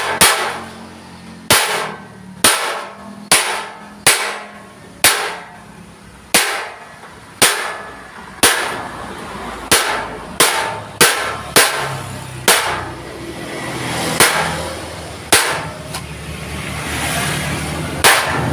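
A hammer striking a hand chisel to punch a pattern into thick scrap steel plate: about eighteen sharp blows, roughly one a second, with a quicker run of blows about ten seconds in.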